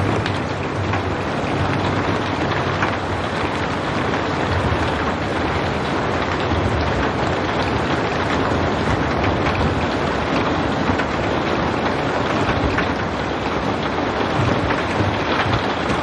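Steady rain falling, a dense even hiss with scattered drop ticks and no thunder.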